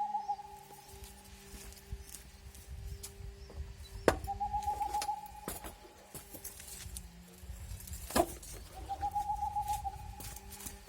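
A bird calling: a warbling note that settles into a steady tone and fades, given about every four and a half seconds. Two sharp knocks fall between the calls.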